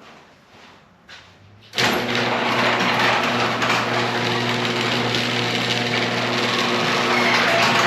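Garage door opener motor starting abruptly about two seconds in and then running steadily with a hum, on a test run after the opener was re-engaged.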